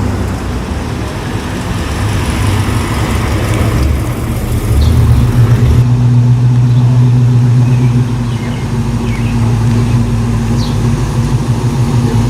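A car engine running at a steady idle close by, growing louder about five seconds in.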